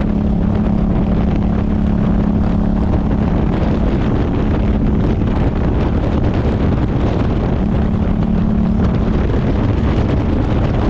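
Motorcycle riding at speed: heavy wind buffeting the microphone over a steady engine hum, which is strongest in the first half and comes back briefly later.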